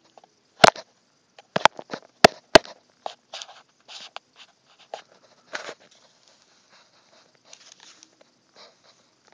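A small plastic GPS unit and tools being handled on a work surface. There are four sharp clicks and taps in the first three seconds, then softer taps and light rustling.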